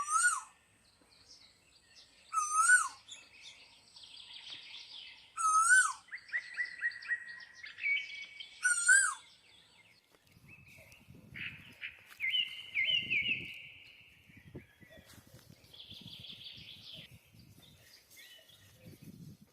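Asian koel (koyal) calling, four loud rising-and-falling calls about three seconds apart, over softer chirping of other birds. In the second half, after the koel stops, low rustling and shuffling noises join the birdsong.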